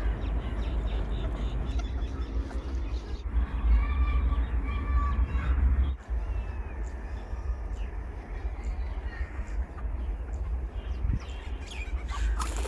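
Wild birds calling, with a run of repeated calls a few seconds in and fainter calls later, over a steady low rumble.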